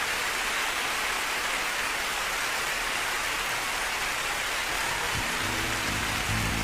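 Steady hiss of rain, a rain sound effect in the song's backing track. Low musical notes come in about five seconds in.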